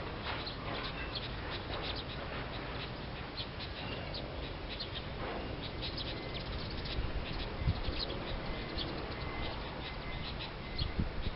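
Small songbirds chirping: many quick, high chirps in a steady patter, with an occasional thin held note. A couple of low thuds break in about eight seconds in and near the end.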